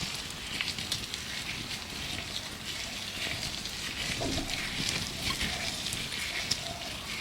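Gloved hands rubbing and crinkling close up in many short crackly strokes, with birds calling in the background.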